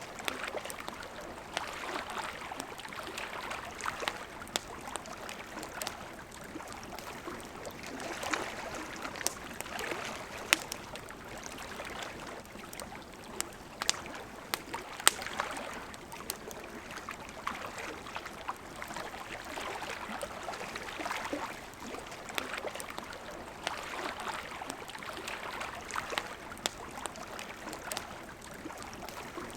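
Campfire crackling, with sharp irregular pops (the loudest about halfway through), over the steady rush of a flowing river.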